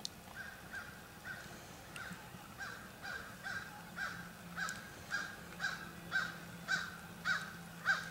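A bird calling outdoors in a long series of about fifteen harsh, caw-like calls, roughly two a second, growing louder toward the end.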